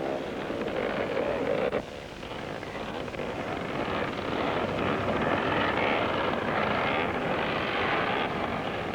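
Several scrambles motorcycle engines running together on the start line, a steady busy blur of engine noise with a brief dip about two seconds in.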